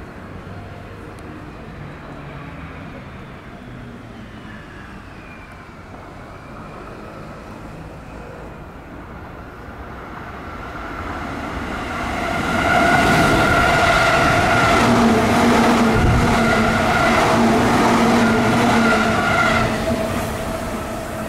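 Yokohama Line electric train running along the station platform. The sound builds from about ten seconds in and is loud with steady whining tones for about eight seconds, then fades near the end.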